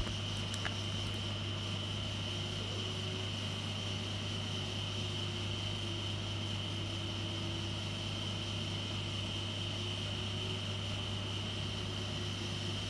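A steady low hum with a steady high-pitched whine over an even hiss, unchanging throughout.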